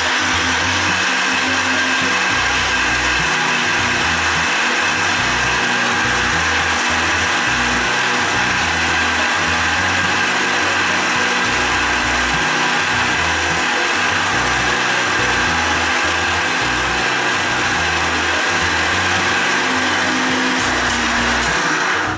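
Electric mixer grinder running steadily at speed, grinding cooled fried masala into a paste, then cut off at the very end.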